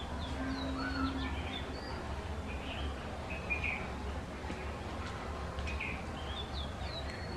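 Small birds chirping in the background: short, high, quick calls in scattered clusters, over a steady low hum.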